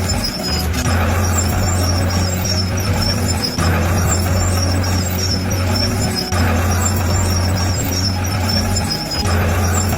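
Shantui bulldozer's diesel engine running steadily under work. Its low drone dips briefly about every three seconds.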